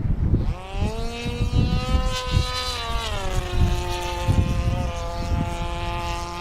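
O.S. Wankel rotary glow engine on an RC model Tiger Moth flying past, its note coming in about half a second in and dropping in pitch around three seconds in as the plane passes, then fading near the end.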